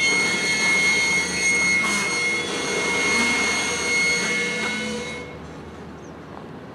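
Freight train rolling past, a steady rumble of wheels on rail with thin high-pitched wheel squeal over it, cutting off suddenly about five seconds in.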